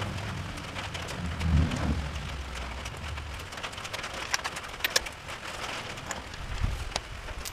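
Rain falling, with scattered sharp drips and taps of drops landing on hard surfaces, and a low thump about one and a half seconds in.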